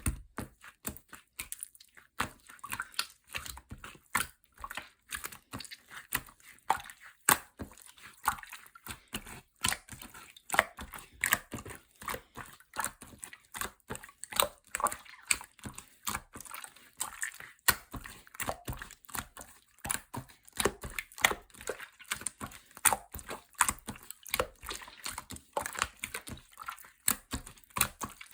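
Orange clear slime being squeezed, folded and poked by hand, making a rapid, irregular stream of small wet clicks and pops.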